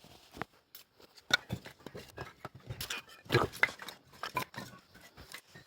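Pieces of split firewood knocking and clattering together as they are handled, in irregular knocks with the sharpest about a second in and three seconds in.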